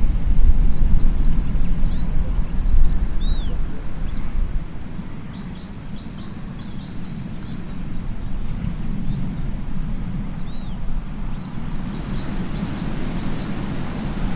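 Wind buffeting the microphone with a low rumble over a steady outdoor rush, loudest in the first few seconds and then easing. Small birds chirp in quick, high, short calls through most of it.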